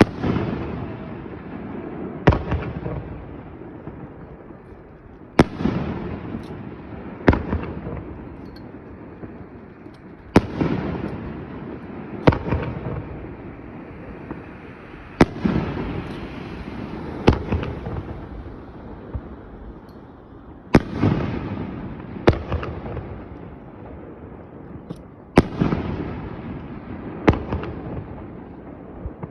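Aerial firework shells bursting one after another, about a dozen sharp bangs two to three seconds apart, each followed by a long rumbling echo that fades out before the next.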